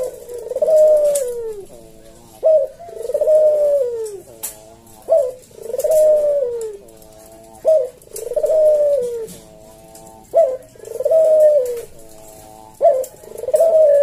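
Puter dove (Barbary dove) cooing its full 'manggung' song: six phrases in a row, each a short sharp note followed by a long coo that falls in pitch, repeating about every two and a half seconds.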